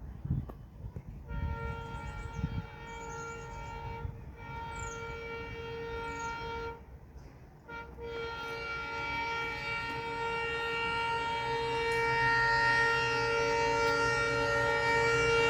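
Locomotive horn of an Indian express train sounding long steady blasts with several tones at once, starting about a second in, with short breaks near four and seven seconds, then held and growing louder over the low rumble of the train.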